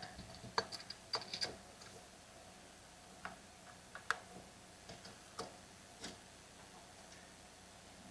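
Faint, irregular light clicks and taps from handling small chainsaw parts and fuel line, a cluster in the first second and a half and then a few scattered ones, over a faint steady hum.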